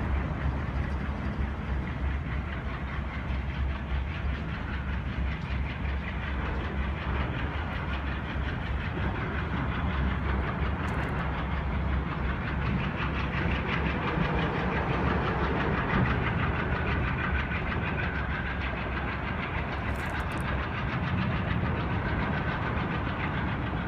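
Diesel locomotive running as it pulls a passenger train slowly away from the station, with a steady low engine hum and the train's wheels on the rails.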